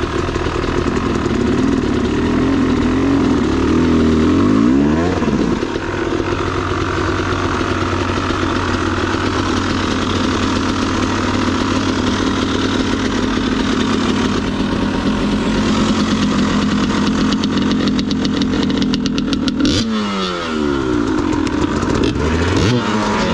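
Dirt bike engine running, revving up and dropping back about four seconds in and again near the end, with steady running between.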